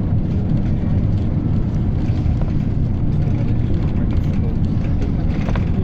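Inside a PAZ-320405-04 "Vector Next" bus on the move: steady low engine and road rumble, with a brief faint rattle about five seconds in.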